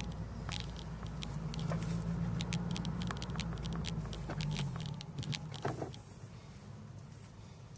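2007 Honda Civic Si's 2.0-litre four-cylinder humming at low revs, heard from inside the cabin while rolling slowly, with frequent sharp clicks and rattles. About five seconds in the engine note drops away as the car slows.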